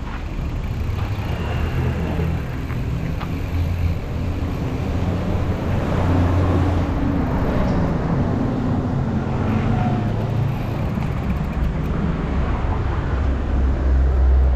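A motor vehicle's engine running while on the move, its pitch stepping up and down as it changes speed, over steady road and wind noise.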